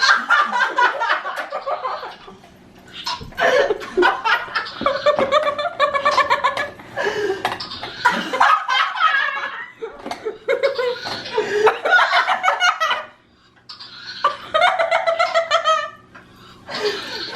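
A person laughing hard in several long fits, with short pauses for breath between them.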